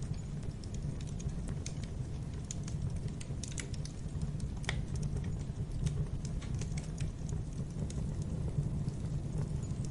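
Wood fire crackling in a fireplace: a steady low rumble of flames with scattered sharp pops and crackles, one louder snap near the middle.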